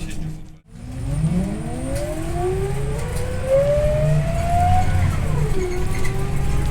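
Scania OmniLink I bus drivetrain whining up in pitch as the bus accelerates, dropping back at a gear change about five seconds in and then rising again.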